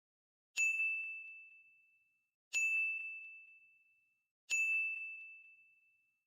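Three identical bell-like dings about two seconds apart, each a single high tone fading away over about a second and a half.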